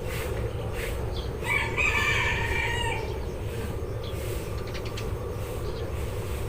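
A rooster crows once, a call of about a second and a half starting about a second and a half in. Around it are scattered short chirps of Eurasian tree sparrows over a steady low rumble.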